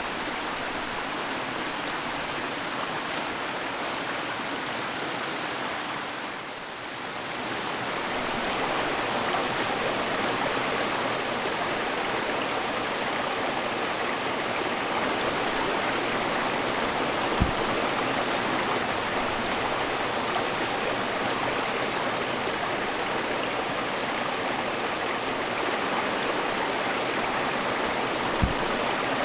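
Mountain stream running steadily, with a brief dip in level about six seconds in and two soft low thumps in the second half.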